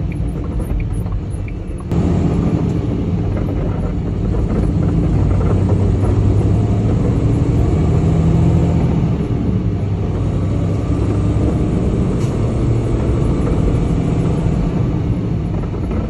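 Semi truck's diesel engine and road noise heard from inside the cab while driving, a steady low drone that steps up in loudness about two seconds in.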